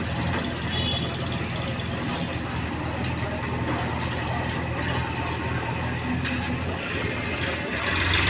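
Heavy diesel engine of earthmoving machinery running steadily at low revs, with a slight rise in loudness near the end.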